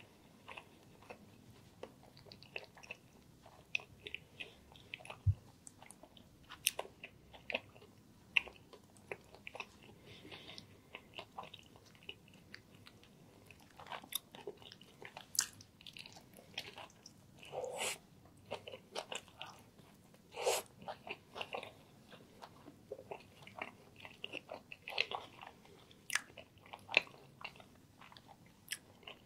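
Chewing and biting into a chicken and mushroom sandwich in a toasted roll: irregular crunches and crackles of the bread, with a few louder crunches in the middle.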